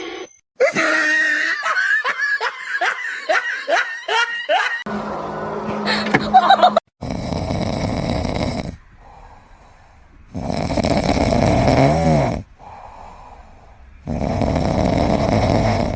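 A run of about eight quick rising squeaky calls, then a pet snoring loudly in three long snores a few seconds apart.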